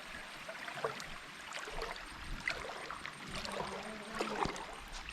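Shallow water trickling and splashing over rocks at a waterfall running very low, a thin uneven patter rather than a steady rush.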